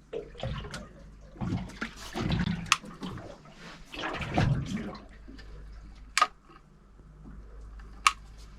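Water slapping and sloshing against a small boat's hull in uneven swells, with a few sharp knocks and a low steady hum underneath.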